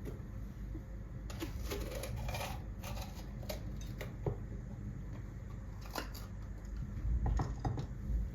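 Small handling sounds: scattered light clicks and rustles over a steady low rumble.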